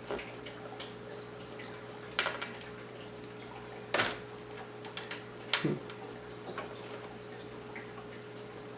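A handful of small, sharp clicks and taps from a screwdriver and tiny screws as the screws holding a laptop's LCD panel in its frame are taken out and set aside, over a faint steady hum.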